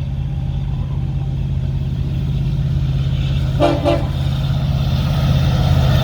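Diesel locomotives of a Union Pacific freight train running with a steady, loud low rumble. Two quick short blasts of the locomotive horn sound a little past halfway.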